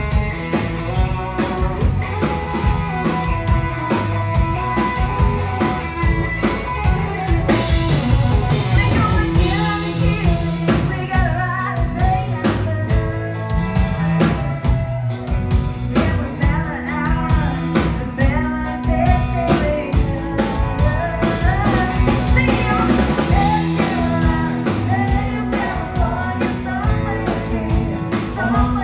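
Country band playing a song, with a singer's voice over drum kit and guitar.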